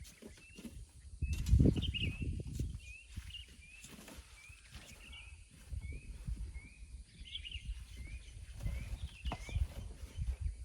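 A bird repeats a short, rising chirp about twice a second. Underneath it run irregular low scraping and thumping noises, loudest between about one and a half and two and a half seconds in.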